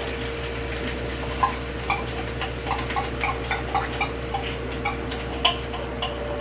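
Eating utensils clinking lightly against plates and bowls in a run of quick taps, about three a second, over a steady hum.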